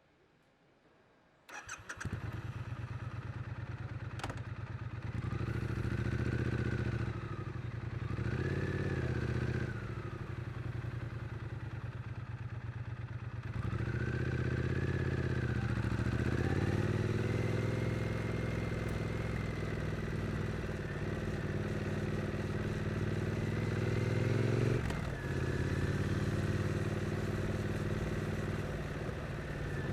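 Stock Triumph Street Twin 900 cc parallel-twin engine starting about a second and a half in, then idling with two short throttle blips. The revs then rise and climb slowly as the bike pulls away, and drop sharply near the end, as at a gear change.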